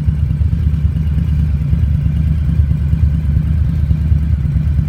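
Harley-Davidson V-twin motorcycle engine running steadily under way, a continuous low-pitched engine sound.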